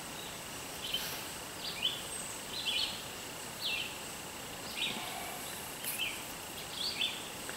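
A small songbird chirping over and over, short down-slurred notes about once a second, over a faint steady high-pitched insect-like hum.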